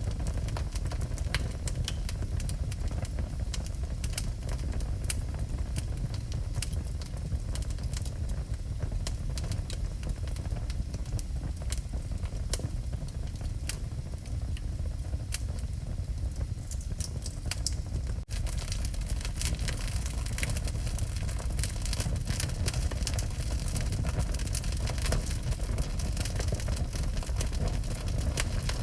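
Wood fire burning in a fireplace: a steady low rumble of flames with frequent sharp crackles and pops, which grow denser after a brief dropout about two-thirds of the way in.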